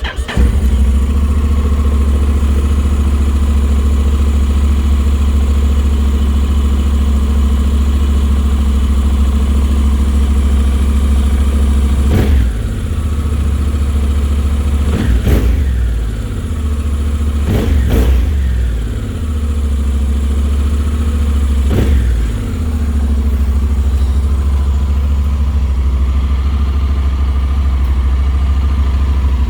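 Honda X-ADV's 745 cc parallel-twin engine through its stock exhaust, catching and starting right at the beginning, then idling steadily. Four short throttle blips come a few seconds apart in the middle, each rising and falling back to idle.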